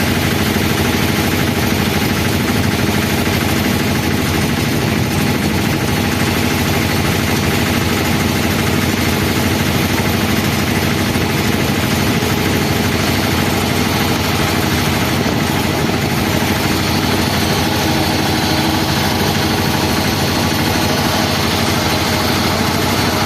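Airbus A320 aircraft running at idle at its arrival stand: a loud, steady, unchanging engine noise with several held tones over a wide hiss.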